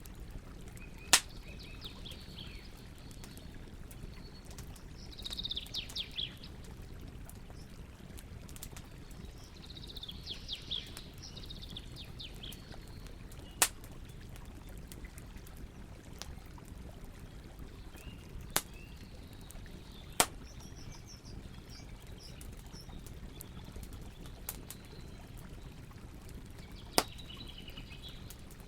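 Campfire burning with a steady low rumble, faint crackling and five loud sharp pops spread across the stretch. Birds chirp in short trilling phrases in the background several times.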